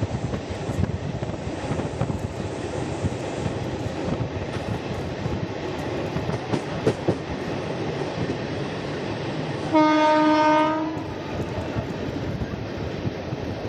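Indian Railways express train running along the track with a steady rumble and wheel clatter. About ten seconds in, the locomotive horn sounds once, a single steady tone lasting about a second.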